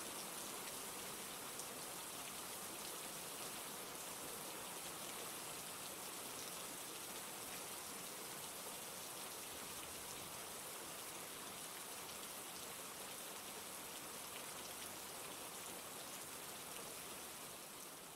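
Steady rain falling in an even hiss, fading slightly near the end.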